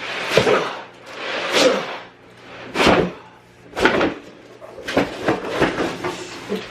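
Flat-pack wooden organizer boards and their packaging being handled: about six short scrapes and knocks, spaced roughly a second apart.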